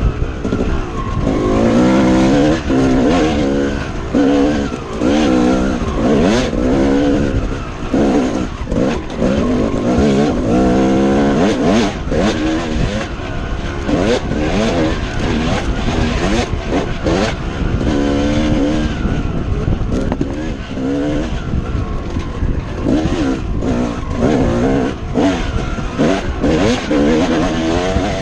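Dirt bike engine being ridden hard, its pitch rising and falling over and over as it revs up and drops back through the gears.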